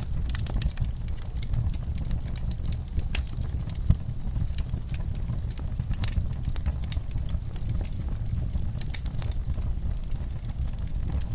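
Wood fire burning in a fireplace: irregular crackles and pops over a steady low rumble of flames, with one louder snap about four seconds in.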